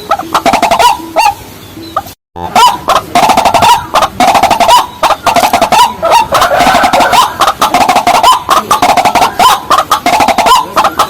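White-breasted waterhen calling: a loud, dense run of short repeated croaking notes with rising hooks, several a second. The sound drops out completely for a moment about two seconds in, then the calling resumes.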